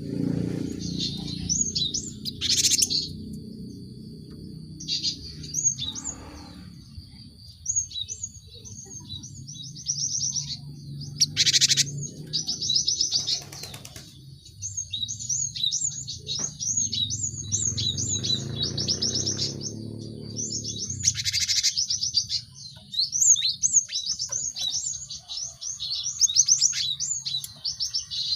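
Cinereous tits (gelatik batu) calling in long, fast series of sharp, high chirps, with a few short, louder rasping bursts among them. A low rumble runs underneath until about three quarters of the way through.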